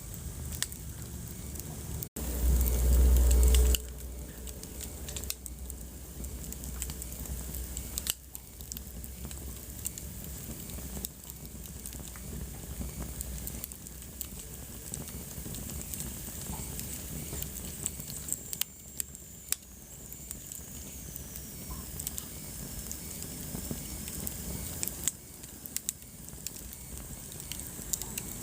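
Wood fire in a fireplace crackling, scattered sharp pops over a steady low hiss. About two seconds in, the sound cuts out for an instant, then a loud low rumble lasts about a second and a half.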